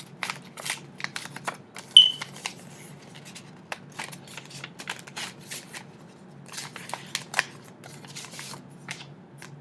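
A paper greeting card and its envelope being handled and opened: a run of short, crisp paper rustles, with one sharper click about two seconds in.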